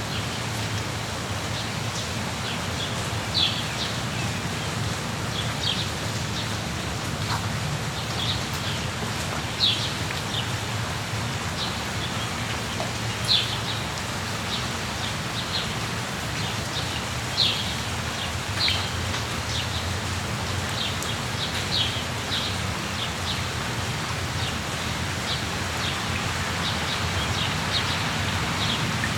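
Steady rain falling, with small birds giving short high chirps every second or two over it.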